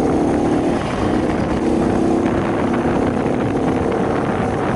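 Shineray 50cc motorcycle engine running steadily while riding, its note easing briefly about a second in, with heavy wind buffeting on the microphone.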